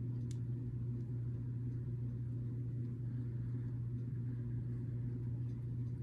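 Steady low background hum, like a running appliance or fan, with a faint click of plastic building bricks about a third of a second in.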